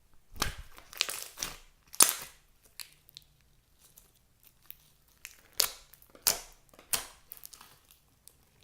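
Hands squeezing and pressing crunchy clear slime with floam beads mixed in, giving a dozen or so short crackling, crunching bursts. The bursts come thickest in the first two seconds and again in the second half, with a quieter stretch in between.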